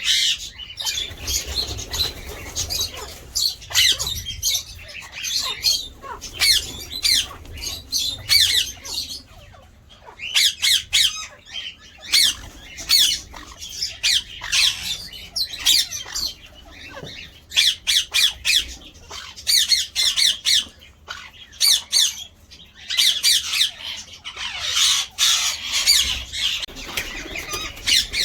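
Indian ringneck parakeets squawking: harsh, high-pitched calls repeated in quick runs with short pauses between them.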